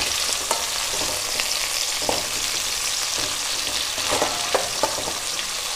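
Sliced onion, crushed garlic, curry leaves and green chillies sizzling in hot oil in a metal kadai as they are stir-fried. A spatula scrapes and clicks against the pan now and then.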